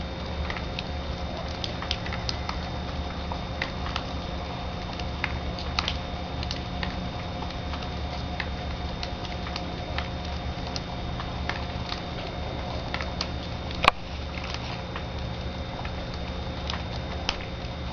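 Falling snow pattering and ticking irregularly on nearby surfaces over a steady low hum. One sharp click about fourteen seconds in.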